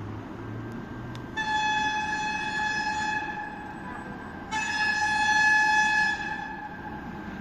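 Horn of a 2ES6 electric freight locomotive sounding two long blasts of one steady pitch, each about two seconds, over the low rumble of the passing train. The blasts are the crew's greeting.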